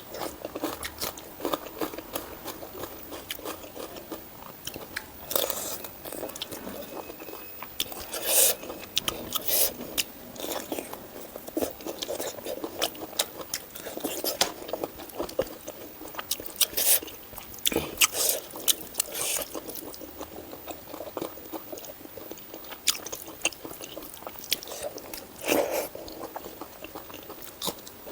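Close-miked mouth sounds of a person eating pork with mustard greens and rice: steady chewing with irregular clicks and crunches, and a few louder bites scattered through.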